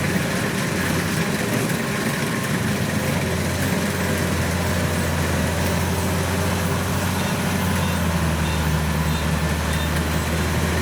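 Diesel engine of rice-field machinery running steadily with a low hum; its note shifts slightly about three quarters of the way through.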